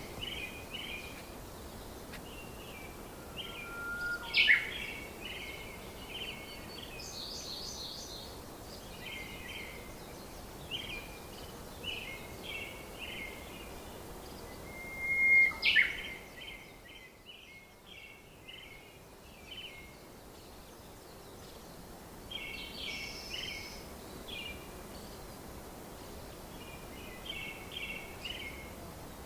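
Small birds chirping: short high notes in quick groups repeating throughout, with a louder, sharp gliding call about four seconds in and again about fifteen seconds in.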